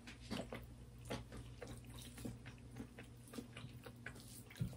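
Soft, close chewing and wet mouth sounds of people eating chewy beef intestine curry with rice by hand, as a run of small irregular clicks and smacks.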